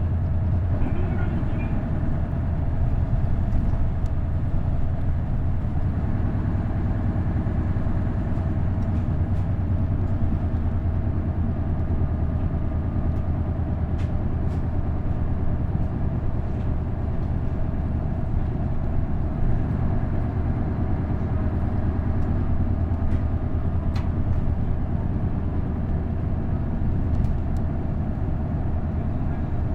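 Isuzu Erga KL-LV280L1 bus with a V8 diesel engine and direct-drive five-speed manual, heard from on board running steadily. A low engine drone mixes with road noise, with a couple of sharp clicks about halfway through and again near the end.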